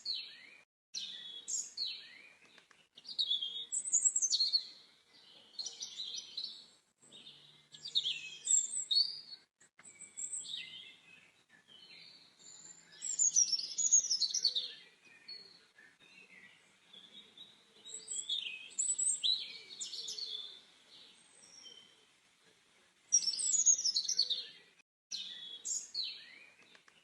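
Songbirds singing: repeated bursts of rapid, high chirps and whistled trills, phrase after phrase with short pauses between.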